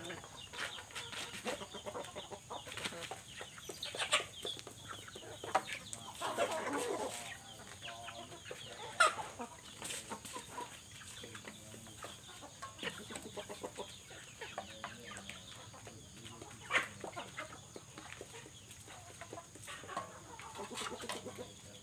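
Chickens clucking on and off, with scattered short clicks and knocks.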